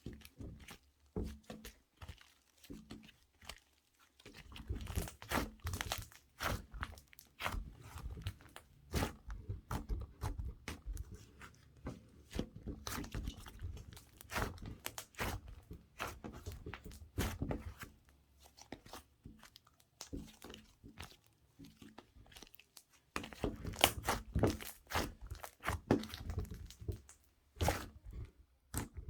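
Slime being squished, stretched and pressed by hand: dense runs of sticky crackling, popping and tearing sounds, with quieter pauses in between.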